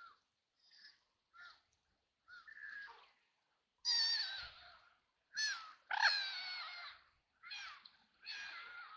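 Ducks quacking: about ten short calls in a row, faint at first and louder from about four seconds in.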